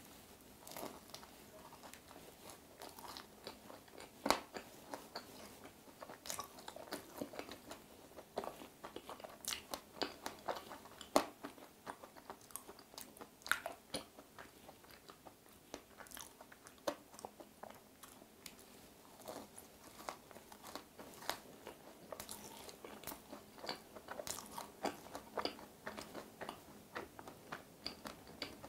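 A person biting and chewing a raspberry macaron: soft crunches of the shell and many irregular short mouth clicks.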